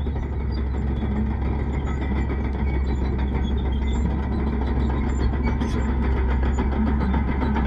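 Bulldozer's diesel engine running steadily under load with a deep rumble, over a continuous fine clatter of its steel tracks.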